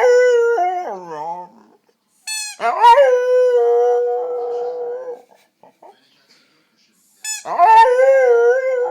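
A dog howling in three long drawn-out calls. One is trailing off in the first second and a half, the next runs from about two to five seconds in, and the last starts about seven seconds in. Each sweeps up quickly and then holds a steady, slightly wavering pitch.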